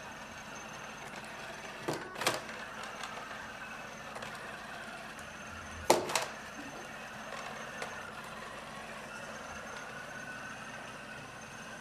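Roomba robot vacuum running, a steady motor and brush whir with a faint wavering whine, broken by two pairs of sharp knocks about two seconds in and about six seconds in, the later pair the loudest.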